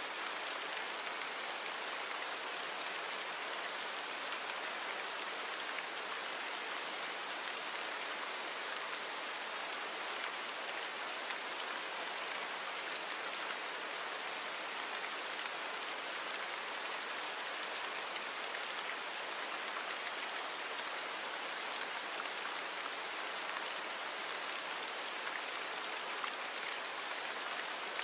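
Steady rainfall: an even hiss of rain falling on surfaces, with fine drop patter and no thunder.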